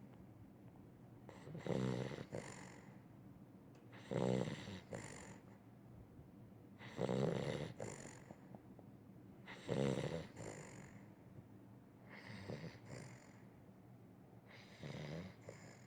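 Weimaraner snoring in its sleep: six rattling snores at an even pace, about one every two and a half to three seconds, the last two quieter.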